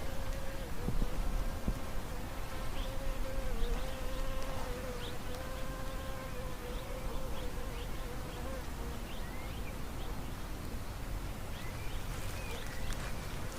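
A flying insect buzzing close by, a steady, slightly wavering hum that stops about two-thirds of the way through. Short bird chirps sound in the background over a low rumble.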